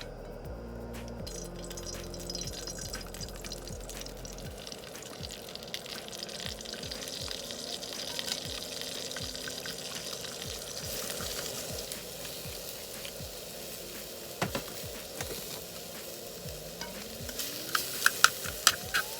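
Food sizzling as it fries in a pan, with a run of sharp clicks near the end like a utensil tapping the pan.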